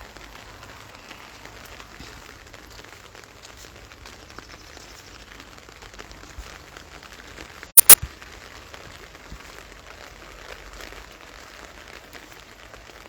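Light rain pattering steadily. About eight seconds in come two sharp, loud clicks in quick succession.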